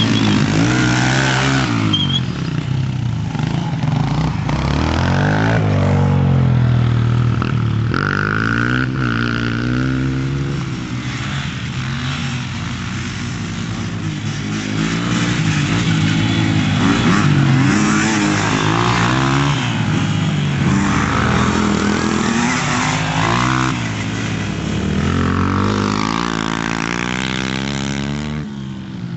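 Dirt bike engines revving up and down as the bikes race. The pitch keeps rising and falling, and at times more than one engine is heard at once.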